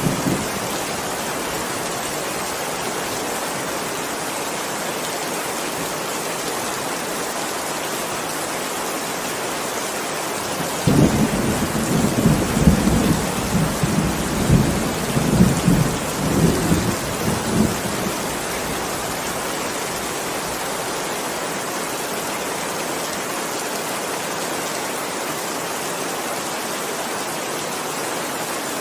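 Heavy rain falling steadily, with a rolling rumble of thunder that swells about eleven seconds in and dies away some seven seconds later.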